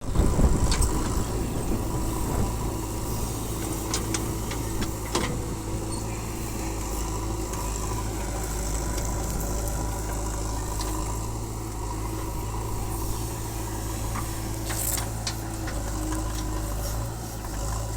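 JCB backhoe loader's engine running steadily, with a few scattered clicks and knocks over the drone.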